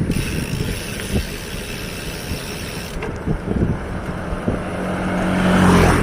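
Wind buffeting the microphone of a moving bicycle rider. Near the end a motor vehicle's engine approaches and passes close by, swelling to a peak and then falling away.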